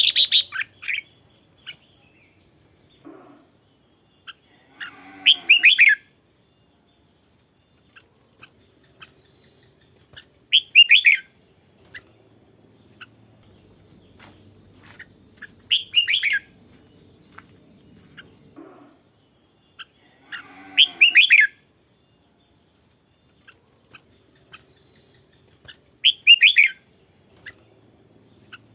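Red-whiskered bulbul singing: six short, rapid warbling phrases of about a second each, spaced roughly five seconds apart.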